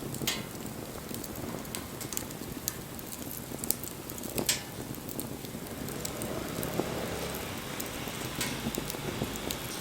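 Wood fire burning with a steady crackle and several sharp pops and snaps from the burning wood. A low rumble builds in the second half.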